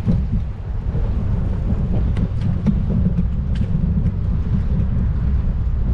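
Steady low rumble of wind and road vibration on a phone microphone mounted on a moving bicycle, with a few light rattling clicks.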